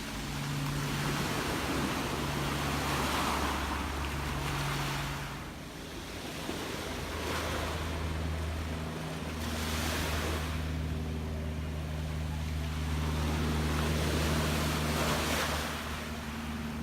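Gentle sea waves washing in and ebbing in repeated swells every few seconds, over a steady low hum.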